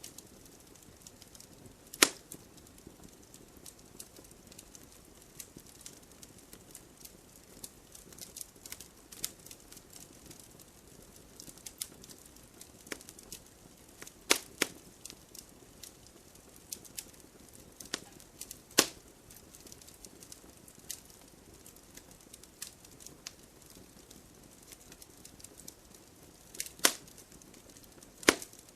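Burning firewood crackling: a soft steady hiss and constant small ticks, with about five sharp, loud pops from the wood.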